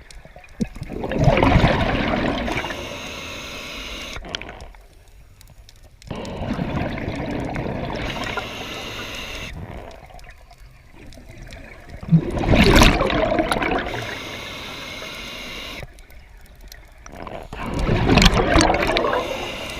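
Scuba diver breathing through a regulator underwater: four breaths, each a loud rush of exhaled bubbles, about every five to six seconds.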